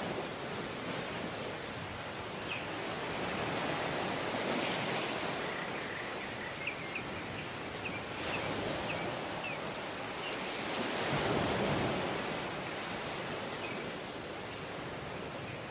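Surf washing onto a tropical beach: a steady rush of waves that swells twice, about four and about eleven seconds in, as waves break and run up. A run of faint short high chirps sounds through the middle.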